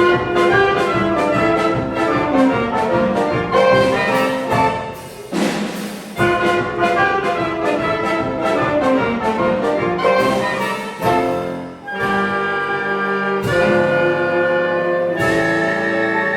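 Children's brass band playing a medley of cartoon-song tunes, trumpets and trombones over a steady percussion beat, moving to longer held chords near the end.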